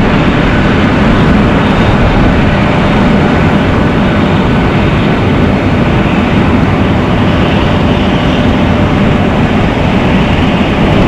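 Steady, loud machinery noise from a Boeing 737 on the ground, an even rushing drone with no breaks, while its flaps retract.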